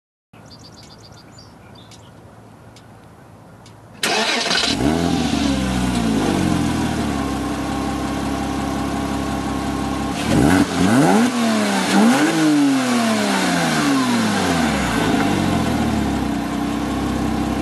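Porsche Cayman flat-six starting through a Meisterschaft GT racing exhaust about four seconds in, with a rev flare that falls away to a steady idle. Near the middle the throttle is blipped twice in quick succession, the pitch rising and falling each time, before the engine settles back to idle.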